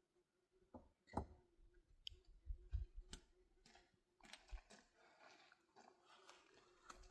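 Faint, scattered clicks and knocks, with soft rustling from about four seconds in.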